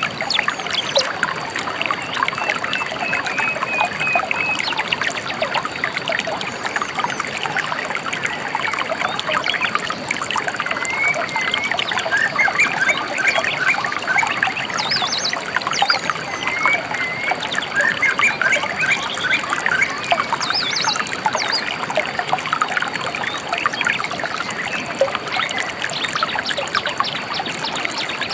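River water trickling and splashing steadily over stones, with small birds chirping and whistling now and then above it.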